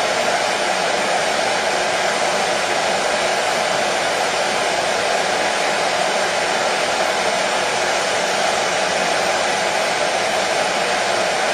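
Hair dryer running steadily: an even, unbroken rush of air and motor noise, strongest in the lower middle, used as white noise to soothe a baby to sleep.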